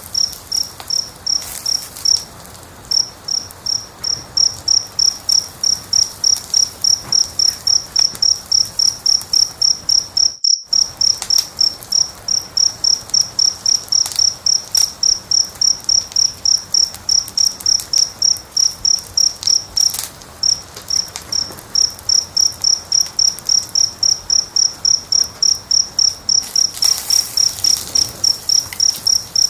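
A cricket chirping steadily and rhythmically, about three high chirps a second, over faint crackling of a wood fire. The chirping pauses briefly twice, and all sound drops out for a split second about ten seconds in.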